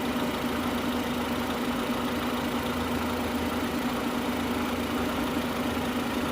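2003 Honda Civic engine idling steadily with the coolant cap off, run warm to purge air bubbles from the cooling system.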